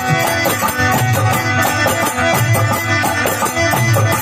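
Instrumental passage of a desi bhajan, an Indian devotional folk song, with no singing. Sustained melody instruments play over a steady drum beat.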